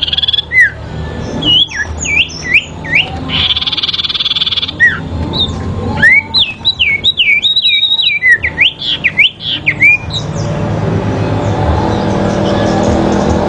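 Sirpu songbird fighting calls: quick series of sweeping, whistled notes and a short buzzy trill, over a steady low rumble. About ten seconds in the calls stop and the rumble carries on alone, getting louder.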